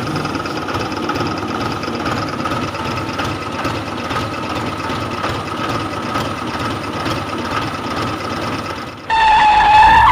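Engine running steadily, a rumble with a constant whine over it. About nine seconds in it gives way to a louder pitched tone lasting about a second, dipping slightly in pitch.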